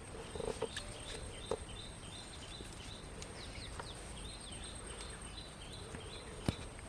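Outdoor nature ambience: a steady high insect drone under a bird's quick series of short repeated chirps, about three to four a second, with a single sharp click near the end.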